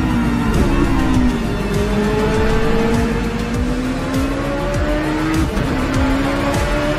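A car engine under hard acceleration, its pitch climbing slowly and dropping sharply at a gear change about half a second in and again about five and a half seconds in, over background music.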